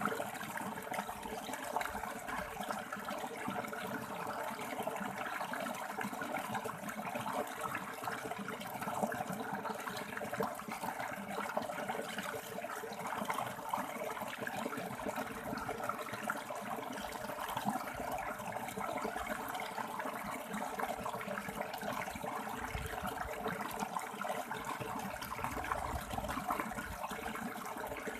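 River water rushing and splashing over rocks, a steady, even flow throughout.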